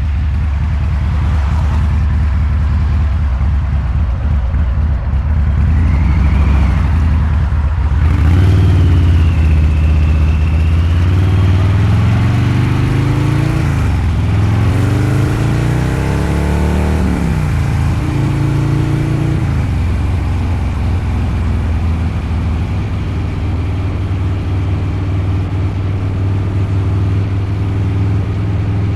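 Harley-Davidson Low Rider's 129 cubic inch V-twin with a Two Brothers Racing exhaust, under way on the road. It runs at a steady rumble for the first few seconds, then the pitch climbs, drops sharply about fourteen seconds in and climbs again. It falls back to a steady cruise for the last third.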